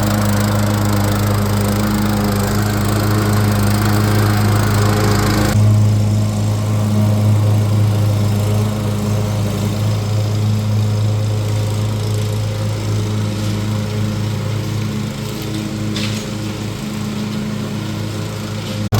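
Cub Cadet XT1 riding lawn mower running steadily while mowing, with an even engine hum. The higher hiss drops away abruptly about five and a half seconds in, leaving mainly the low engine hum.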